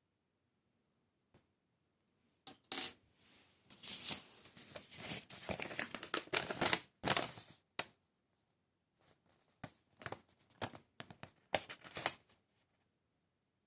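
Small parts of a 1:24 scale diecast model kit being handled: a few seconds of rustling and scraping, then a run of small clicks and taps.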